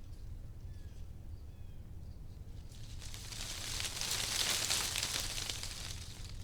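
Wind gusting through tree leaves: the rustling swells about halfway through and eases off near the end, over a low steady rumble. A couple of faint short chirps come about a second in.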